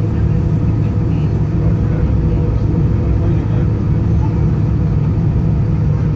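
Steady low drone inside the cabin of an Airbus A320-214, its CFM56 engines running at idle thrust with cabin air, as the airliner taxis before takeoff.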